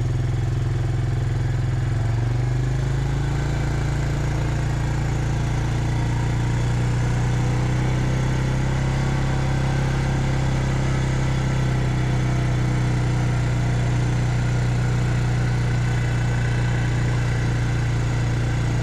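Engine of a farm vehicle running steadily while being driven, with a steady hum that steps up slightly in pitch about two seconds in.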